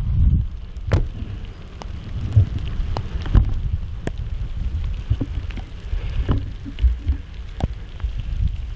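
Rain falling, with irregular sharp taps of drops against a low, steady rumble of wind and handling noise on the microphone.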